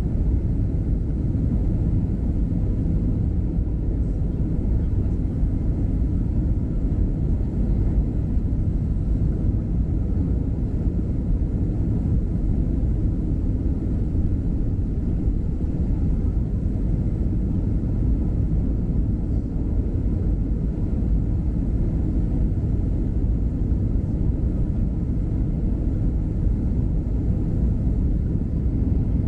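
Airliner cabin noise aboard a Southwest Airlines Boeing 737 in flight: a steady low rumble of the engines and airflow past the fuselage.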